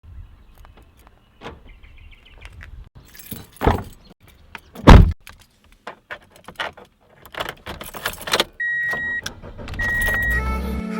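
Clicks, knocks and jangling around a car, with a loud thump about five seconds in. Two steady electronic beeps follow near the end, and then music starts.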